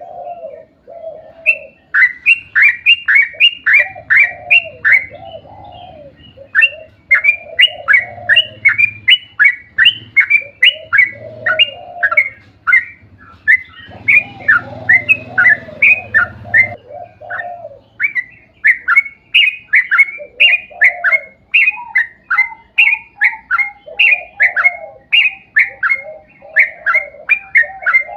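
Yellow-vented bulbul (trucuk) singing a long, rapid chattering run of bright repeated notes, about four a second, broken by brief pauses. Lower warbling notes run underneath.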